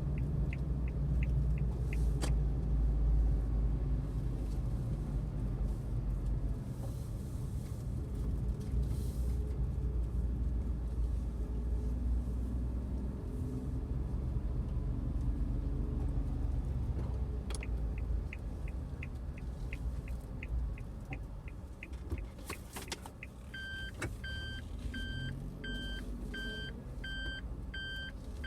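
Inside the cab of a Suzuki Every DA17V van on the move: a steady low rumble of engine and road noise. In the second half a regular ticking of about two a second, typical of a turn signal, runs for a few seconds. Near the end an electronic beep repeats about twice a second.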